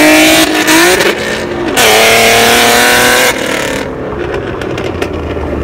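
Car engine at full throttle, revving hard with its pitch climbing. It falls back at a gear change about a second and a half in, then climbs again through the next gear before easing off after about three seconds.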